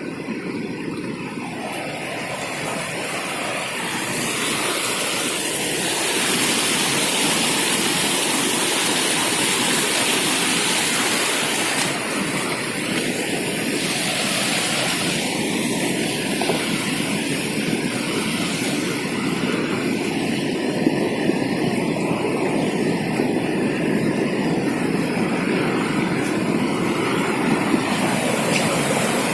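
Steady rushing water noise from fast-flowing water swollen by heavy rain, building up over the first few seconds and then holding level.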